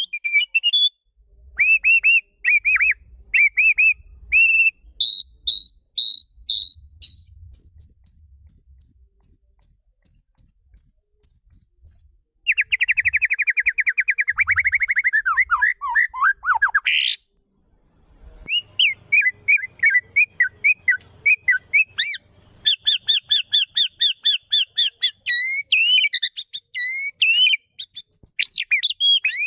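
White-rumped shama (murai batu) singing a long, varied song of clear whistled phrases. Series of quick repeated notes are broken by a fast trill that slides down in pitch about midway, then after a short pause the bird continues with more rapid repeated notes.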